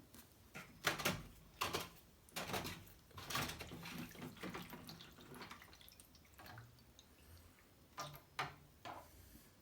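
Water draining from a washing machine's opened pump filter housing, splashing and dripping into a shallow oven tray in irregular spurts.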